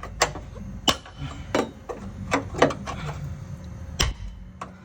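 Irregular sharp knocks and clacks, about a dozen over a few seconds, with a low steady hum underneath.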